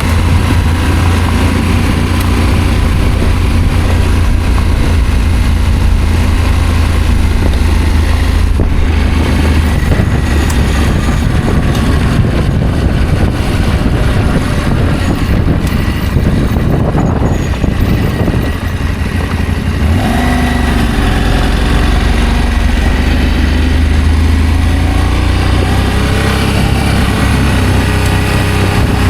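Adventure motorcycle engine running while riding, a steady low rumble under a constant rushing noise. The engine note shifts about twenty seconds in and changes again near the end.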